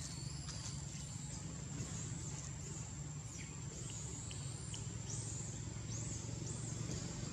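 Forest ambience: a run of short, high, rising-and-falling bird chirps through the middle, over a steady high-pitched whine and a low steady rumble.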